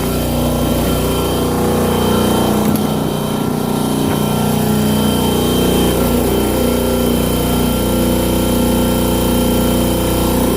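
Husky 30-gallon electric air compressor running steadily, a continuous motor-and-pump drone with a thin high whine over it.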